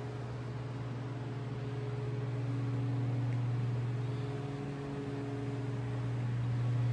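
A steady, low mechanical hum with a couple of fainter, higher steady tones above it, slowly swelling a little in level.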